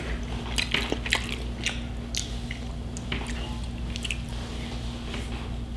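A person chewing a mouthful of food close to the microphone, mouth mostly closed: soft, wet, irregular mouth clicks and smacks.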